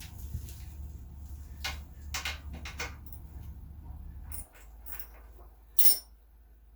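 Scattered clicks and knocks of tools and small engine parts being handled during carburetor work. A steady low hum runs underneath and stops about two-thirds of the way in, and the loudest knock comes near the end.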